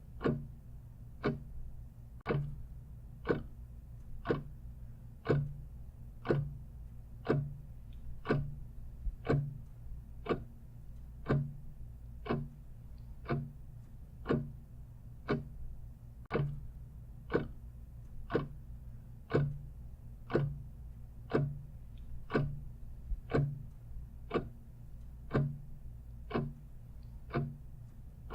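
Clock ticking steadily, about one tick a second, with a steady low hum underneath.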